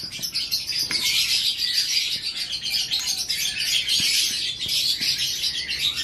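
Many small birds chirping continuously in the background, a dense run of short, high-pitched calls.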